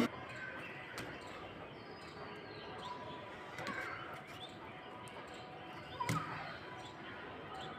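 Quiet background ambience with a few faint knocks or taps, the clearest about a second in and about six seconds in.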